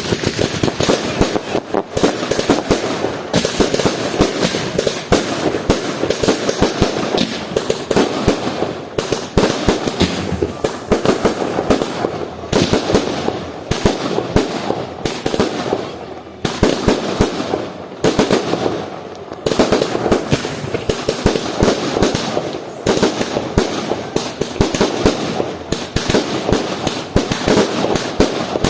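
Fireworks and firecrackers going off nonstop: a dense barrage of overlapping bangs and cracks with a continuous rumble, easing briefly a few times.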